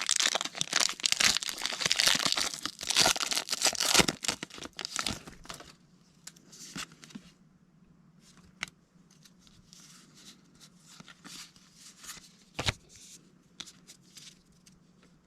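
Foil wrapper of a Pokémon TCG booster pack being torn open and crinkled, loud for about five seconds. Then faint handling sounds follow, with a few sharp clicks.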